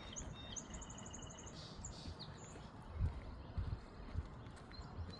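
Songbirds calling, with a quick high trill of evenly spaced notes about half a second in that lasts about a second, and a few short chirps. Low thumps of footsteps on the road come a few seconds in.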